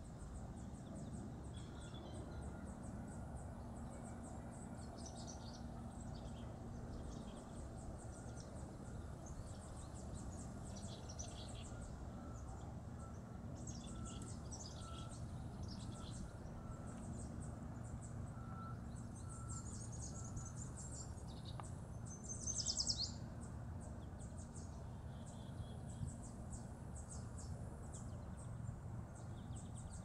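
Small birds singing, with high, rapid trills and short calls repeated throughout and one louder call about three-quarters of the way through, over a steady low rumble.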